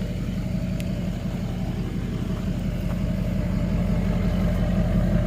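Dually pickup truck's engine idling and running slowly, growing a little louder toward the end, as the truck is backed up to the trailer hitch.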